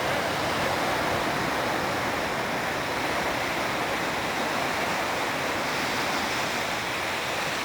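Delta IV rocket's roar reaching the shore from miles away: a steady, rushing rumble with no breaks.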